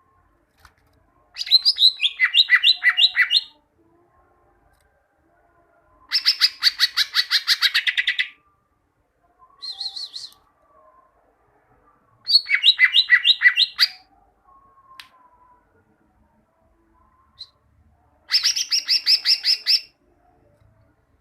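Cucak ijo (green leafbird) singing: four bursts of rapid, repeated high notes of about two seconds each, separated by pauses, plus one short burst about ten seconds in.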